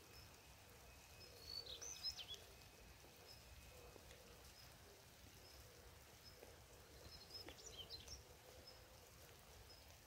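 Quiet forest ambience: a faint steady hiss with short, high bird chirps in two brief clusters, about a second and a half in and again near eight seconds.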